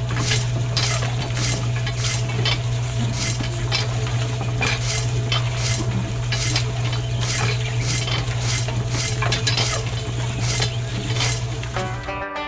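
A steady low mechanical hum under repeated scraping strokes, about two a second, with a plucked-string music track cutting in just before the end.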